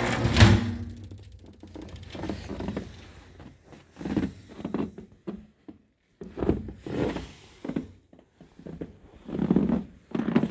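A thump just after the start, then a run of irregular soft footsteps.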